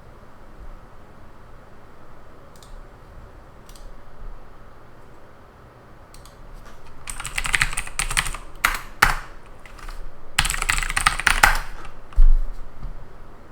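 Typing on a computer keyboard: a few scattered key clicks, then two fast runs of keystrokes about halfway through and again near the end. A low thump follows just after the second run.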